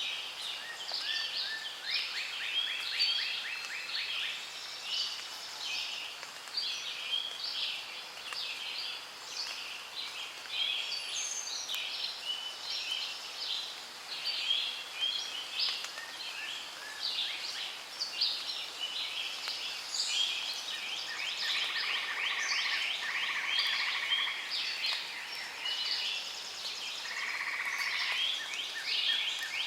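A dense chorus of many birds calling at once, with rapid high chirps and trills overlapping throughout. Buzzing calls come in twice in the second half.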